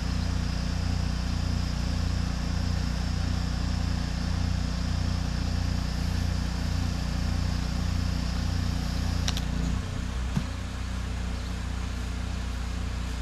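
Pressure washer's engine running steadily, with a constant hiss over it. About nine seconds in there is a click, and the engine note drops slightly soon after.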